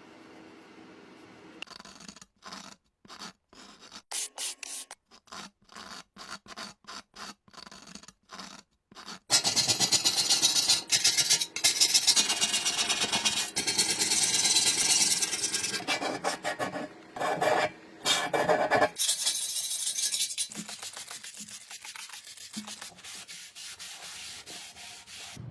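Hand abrasion on rusty metal: rubbing, rasping strokes against a part. The strokes come separately at first, then about nine seconds in they turn into a louder, fast, continuous scrubbing that eases off again after about ten seconds.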